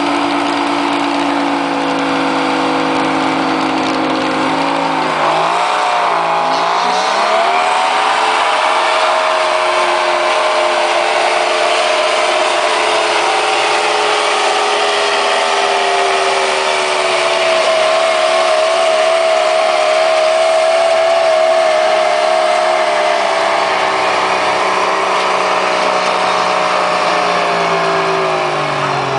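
Engine of a pulling vehicle in a tractor pull, running hard under load for a long run. Its revs dip and climb back about five to seven seconds in, hold high with a slight waver, then start to fall off near the end.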